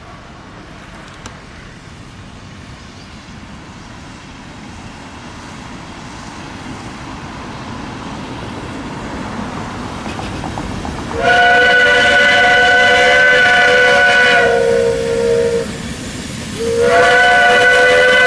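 Steam locomotive NG123 running and growing steadily louder, then sounding its chime steam whistle: one long blast of several notes together that sinks to a single lower note before stopping, then a second blast near the end.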